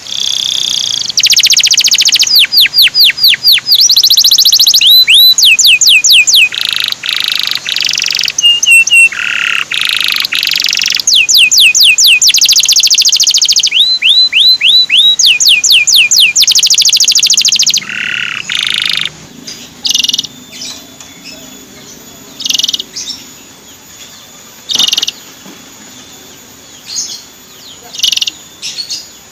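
Male canary singing: loud, fast trills and runs of quick rising chirps. From about two-thirds of the way through, only short, scattered chirps with pauses between them.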